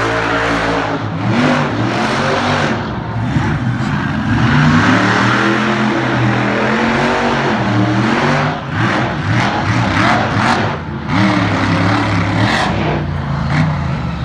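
Monster truck engine revving hard and unevenly, the pitch climbing and dropping repeatedly. Several sharp crashes come in the second half.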